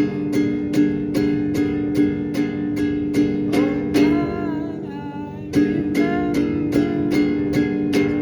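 Song music: an acoustic guitar strummed in a steady rhythm of about two to three strokes a second. A little past three seconds in, the strumming drops out for about two seconds under a sliding melody line, then comes back in.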